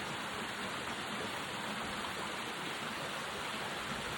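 Steady, even hiss that does not change, with little low rumble and no distinct events.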